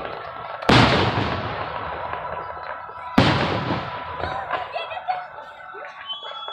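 Two aerial firework bursts about two and a half seconds apart, each a sharp bang that fades away slowly as it echoes.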